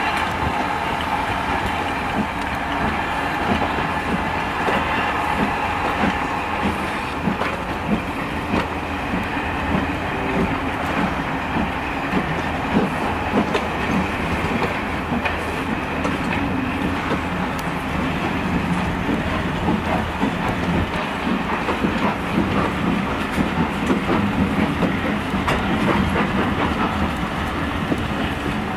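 Steam-hauled train of passenger coaches rolling past, the coach wheels clicking over the rail joints in a steady rhythm.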